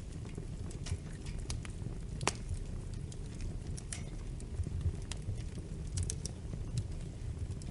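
Fireplace fire burning: a steady low rumble with scattered crackles and pops, the loudest pop a little over two seconds in.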